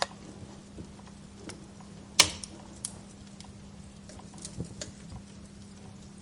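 Wood fire crackling: irregular sharp pops over a low hiss, with the loudest pop a little over two seconds in.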